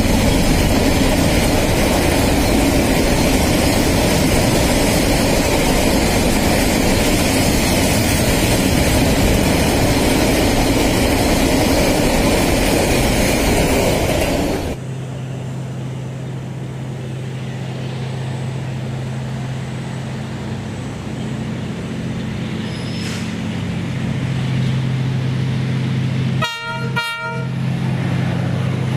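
A container freight train's wagons rolling past with a loud, steady clatter of wheels on rail. About halfway through, this gives way to the low, steady drone of an approaching diesel locomotive. Near the end the locomotive sounds its horn in two short toots.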